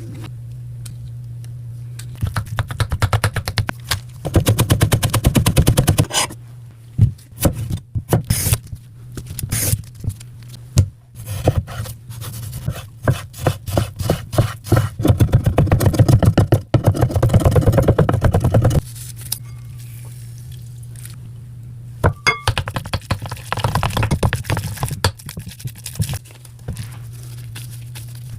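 Kitchen knife chopping rapidly on a cutting board, mincing raw tuna, in long runs of quick even strikes with scattered single knocks and scrapes between them; a steady low hum runs underneath.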